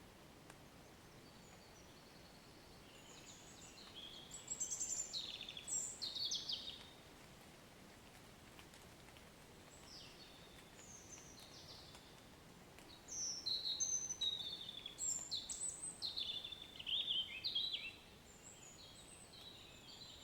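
A songbird singing two long runs of quick chirps and downward-slurred whistles, one starting about three seconds in and another from about thirteen to eighteen seconds, over a faint steady hiss.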